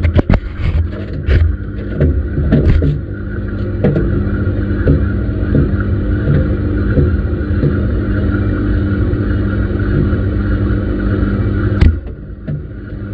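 Washing machine motor turning the drum, a steady hum, with irregular knocks from the tumbling load in the first few seconds. About twelve seconds in there is a sharp click and the sound drops.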